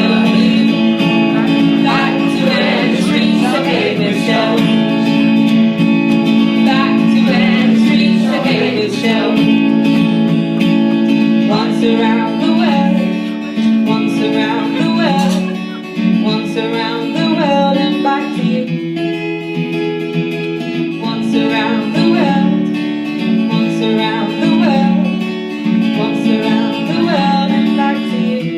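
Live song: a guitar strumming chords while a woman sings.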